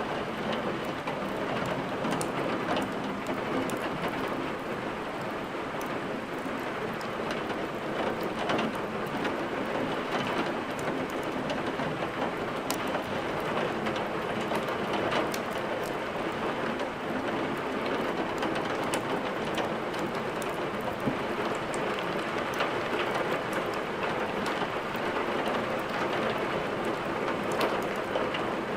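Steady rain with scattered sharp ticks, mixed with a wood fire crackling in a fireplace.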